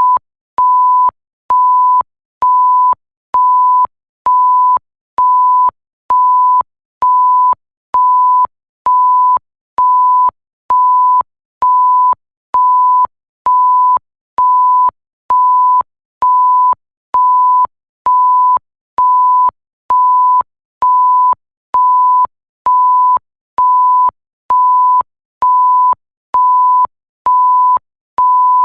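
Electronic bleep: a pure tone near 1 kHz, the usual censor-bleep pitch, sounding in short beeps about once a second, each starting and stopping with a faint click.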